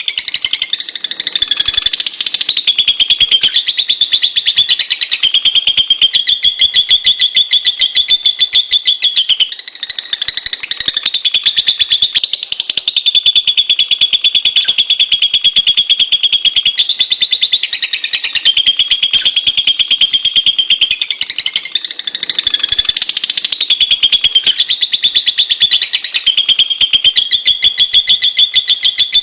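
Lovebird chattering: a long, high-pitched, very rapid string of chirps, broken only briefly about ten seconds in and again past twenty seconds.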